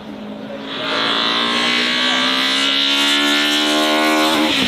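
Racing car engine accelerating hard, its pitch climbing steadily for about four seconds. Near the end the pitch drops sharply as it shifts up a gear.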